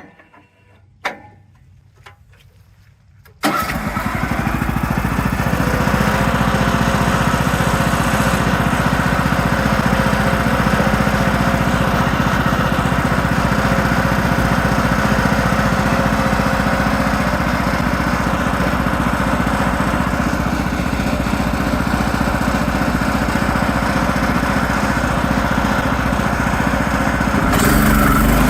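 A few faint knocks, then about three and a half seconds in, the engine of a Woodland Mills portable bandsaw mill starts abruptly and runs steadily. Its note shifts slightly near the end.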